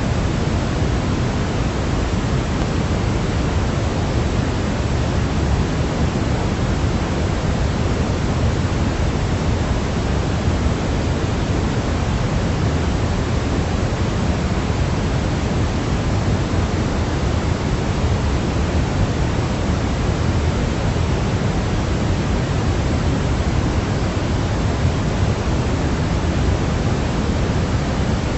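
Steady synthetic noise for baby sleep, even and unchanging, heavier in the low end than the highs, like pink noise.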